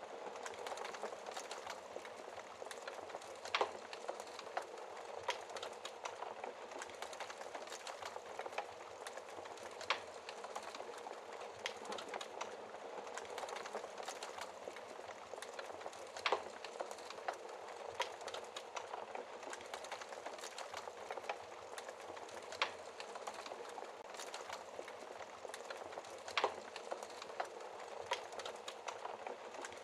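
Wood fire burning in a fireplace: a steady soft rush of flames with continual small crackles and a few louder pops every few seconds.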